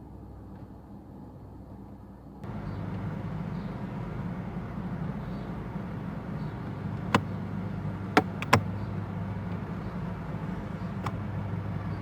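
In a 2009 Kia Sportage, a steady running sound from the cabin climate system starts about two seconds in and holds. Over it come four sharp knocks from under the dash, two of them close together in the middle. This is the under-dash knocking the climate-control mode fault is known for.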